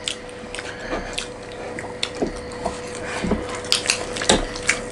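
Mealtime eating sounds: scattered light clicks and clinks against plates, coming thicker in the second half, over a faint steady hum.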